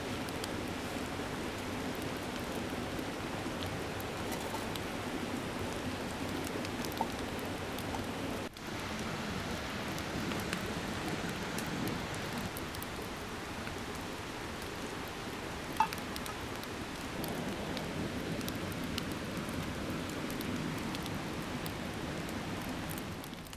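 Steady rush of a mountain stream, with a few faint sharp clicks and one louder tick about two-thirds of the way through.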